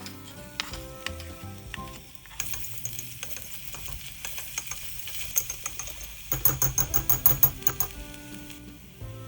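Food sizzling in a miniature pan while a tiny utensil stirs it, with a quick run of clicking strokes against the pan in the second half. Soft background music plays behind it.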